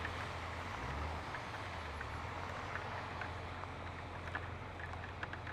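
Steady rain hiss with scattered drops tapping close by, over the low steady running of a Honda Gold Wing motorcycle's engine as it sits stopped in traffic.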